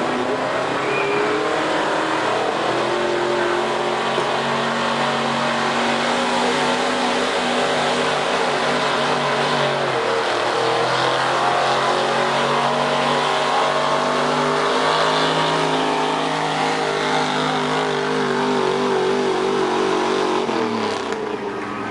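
Pickup truck engine under heavy load, running at high revs as it drags a truck-pull sled. The revs dip about ten seconds in, climb again, and fall away near the end as the pull finishes.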